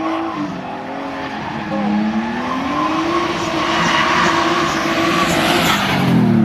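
A car being drifted: the engine is held at high revs, its pitch dipping and climbing with the throttle, over tyre squeal that grows louder toward the end. Near the end the revs fall away.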